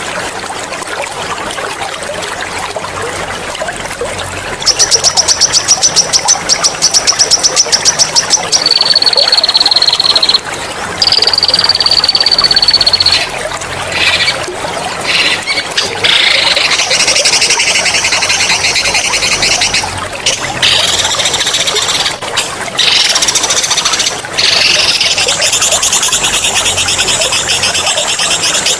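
Songbird singing loud mastering song: a fast rolling trill, then long high whistled notes, then harsh buzzy rattling trills. Water trickles steadily underneath.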